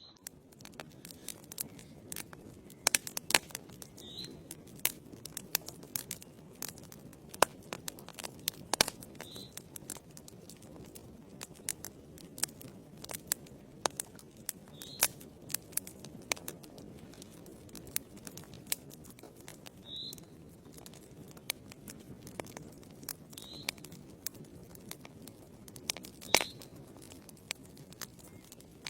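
Wood logs burning in a fireplace, crackling with frequent sharp, irregular pops over the low, steady rush of the flames.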